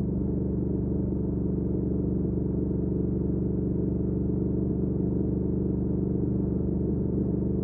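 2019 Triumph Speed Twin's 1200 cc parallel-twin engine running through a Weslake Shorty Pro exhaust at a steady cruising speed, its note holding even with no change in revs.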